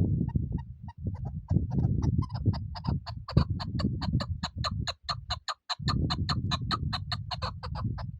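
Chukar partridge giving its rapid clucking call: short chuk notes that start slow and speed up to about four or five a second, then run on as a steady series. A loud low rumbling noise runs underneath.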